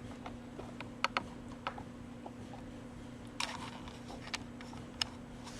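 Scattered light clicks and knocks from chainsaw parts being handled, with one short scrape about three and a half seconds in, over a steady faint hum.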